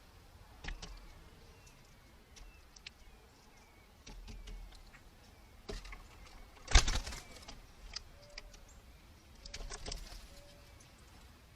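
Red-bellied woodpecker picking at seed, with a few sharp taps and knocks. The loudest comes about seven seconds in and a quick cluster follows near ten seconds. Faint short bird calls sound in the background.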